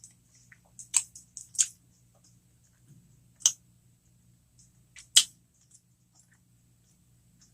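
Close-miked eating sounds of a person chewing cheeseburger jalapeño poppers: four sharp, crackly mouth clicks, the loudest about five seconds in, with smaller wet ticks between them over a faint low hum.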